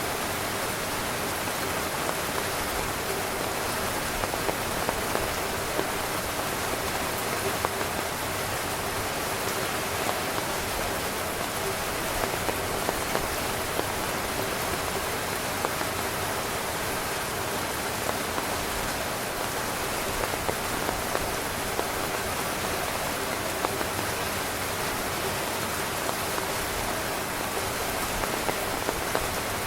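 Steady heavy rain falling on a tent, a dense even hiss with many individual drops tapping on the fabric.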